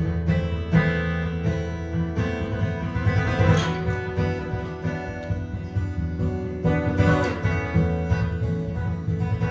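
Improvised jazz guitar: single plucked notes and chords ringing over a steady low bass.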